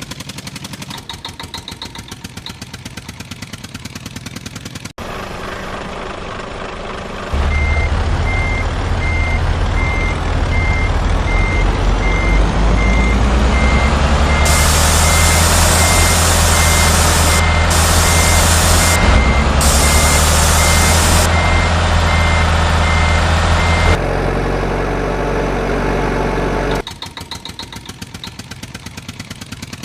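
Truck engine running steadily under a reversing beeper that beeps about twice a second, with a hiss that cuts in and out. Rapid even clicking comes before and after it.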